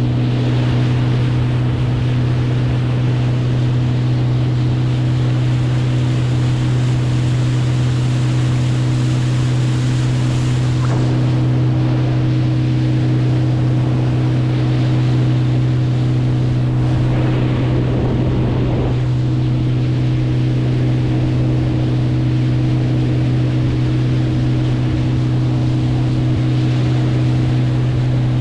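A boat's engine running at a steady pitch, with water rush and wind noise over it and a short surge of splashing or wind about two-thirds of the way through.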